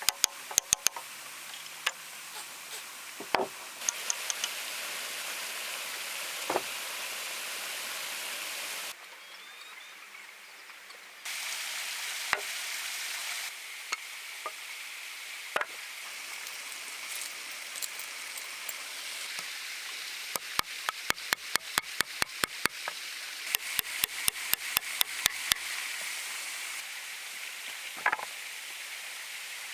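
A hand tool striking stone: sharp taps, some single and some in quick regular runs of about four or five a second, over a steady high hiss that changes abruptly at several points.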